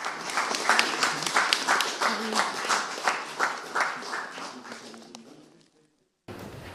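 A small audience clapping in crisp, fairly even claps, about three a second, which die away about five seconds in and then cut off.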